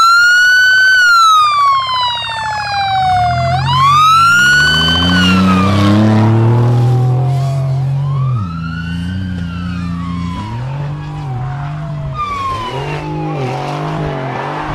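An emergency vehicle's siren wailing, sweeping slowly up and down in pitch about every four seconds and growing fainter. Under it, a vehicle engine revs up a few seconds in, then keeps running with a regular rise and fall.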